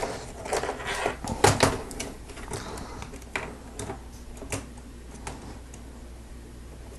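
Hard plastic Lego Technic parts clicking and knocking together as they are handled, in quick irregular taps that thin out near the end.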